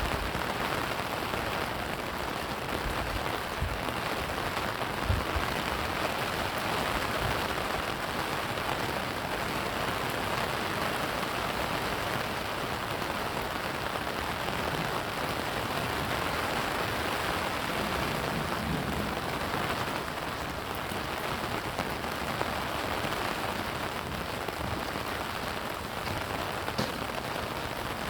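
Steady rain falling and splashing, an even hiss with no let-up, with a few soft low thumps a few seconds in.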